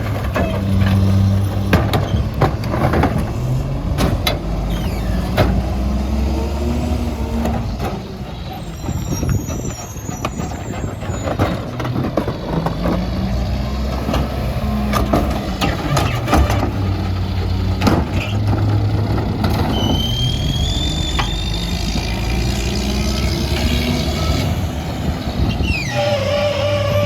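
Mack MR garbage truck with a McNeilus rear-loader body at work: the diesel engine revs up and settles back down several times, over repeated clanks and bangs. A brief high squeal comes about three-quarters of the way through.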